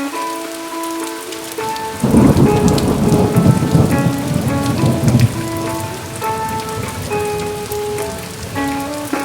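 Steady rain with a rumble of thunder that swells about two seconds in and fades a few seconds later. Guitar notes from the song's instrumental ending play over it.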